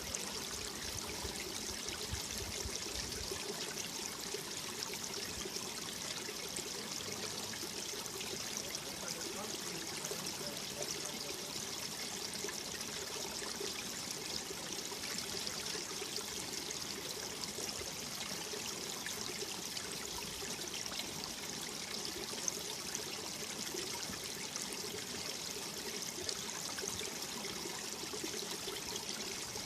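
Mountain valley stream flowing, a steady rush of water without pause.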